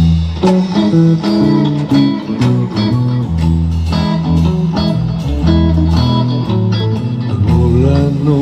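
Instrumental rock passage with guitar playing plucked, picked notes over a deep bass line; no singing.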